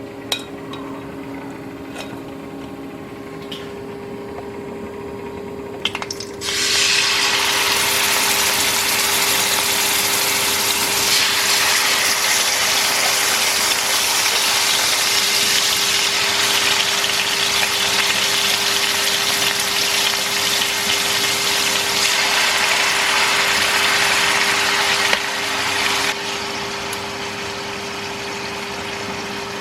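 Mint-yogurt marinated chicken breast laid into a hot oiled pan, starting to sizzle loudly about six seconds in and easing off near the end. A steady hum runs underneath.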